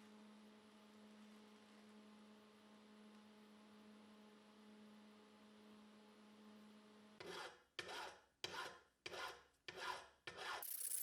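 A faint steady hum, then about seven seconds in six rasping strokes about half a second apart: hand filing on the vise's cast-iron body, smoothing the rough casting.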